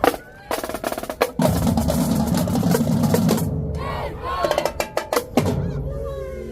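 Marching drumline playing: sharp snare and tenor drum strikes, then a rapid dense roll with bass drums underneath, and a few final accented hits about five seconds in. Crowd voices rise toward the end.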